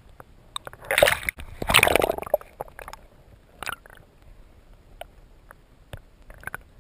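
Water splashing and sloshing, with two louder splashes about one and two seconds in, followed by scattered small knocks and clicks.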